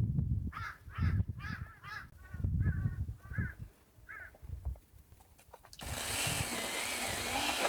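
A crow cawing repeatedly, about eight harsh calls in quick succession, over the low rumble of wind on the microphone. Near the end a steady loud hiss cuts in abruptly.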